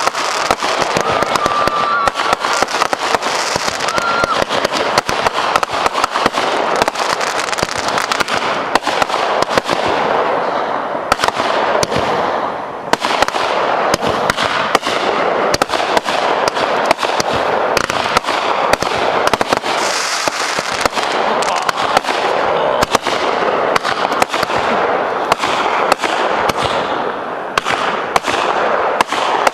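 Consumer fireworks going off in a long, dense run of rapid crackling and popping, with a thin whistling tone during the first few seconds. The crackle eases off briefly twice.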